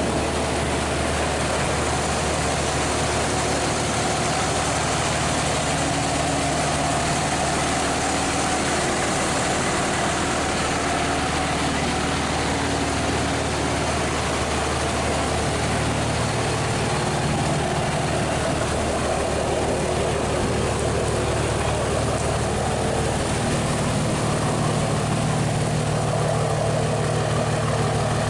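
An engine running steadily with a constant rushing noise over it.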